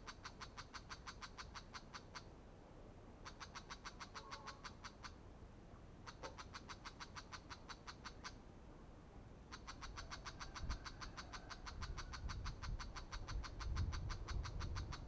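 Brown shrike chattering: fast, harsh rattling runs of about eight notes a second, in four bouts with short pauses between them. A low rumble joins in over the last few seconds.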